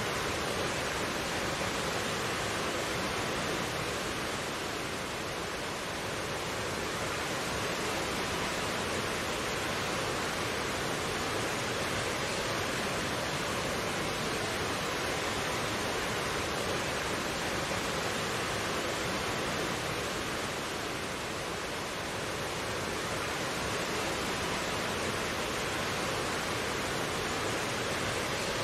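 Mountain stream flowing over rocks: a steady, even rushing of water.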